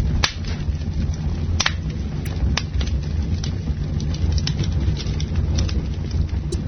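Campfire burning with a steady low rumble and frequent sharp crackles, with a few louder pops among them.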